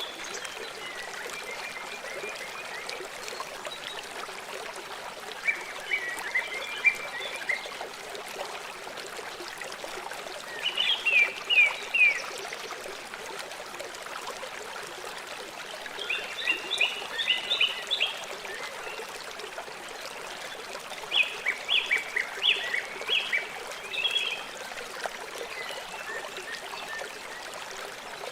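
River water flowing steadily. A bird calls over it about five times, each call a short run of quick, high chirps.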